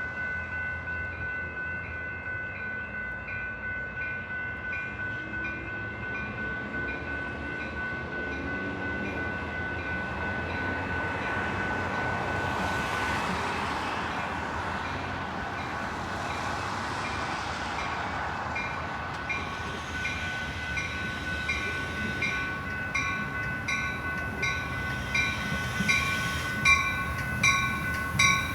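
Metra commuter train passing by a station. Railroad crossing bells ring in a steady pulsing pattern throughout. The rumble of the train swells in the middle, and sharp wheel clicks over the rail joints build and get louder near the end.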